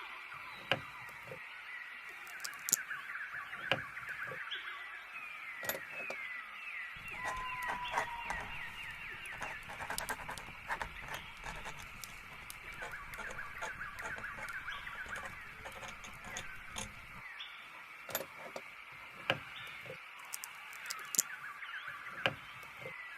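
Small birds twittering continuously, a dense run of short falling chirps, with scattered sharp clicks and taps over them.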